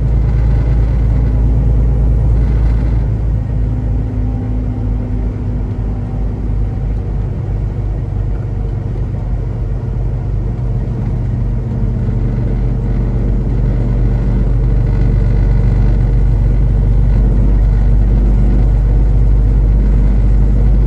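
Semi-truck's engine and road noise while driving: a steady low drone with an even engine hum, easing a little in the middle and building again over the second half.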